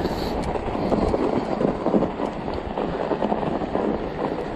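Ecotric fat-tire e-bike jolting and rattling over a rough, frozen sidewalk, with irregular knocks as it hits the bumps and a steady rush of tyre and wind noise.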